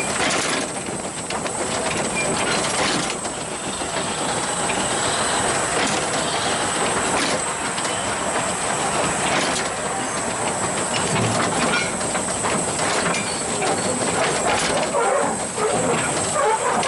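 Narrow-gauge steam train running: the locomotive's steam hissing over the clatter of wheels on the rails, with occasional sharp clicks.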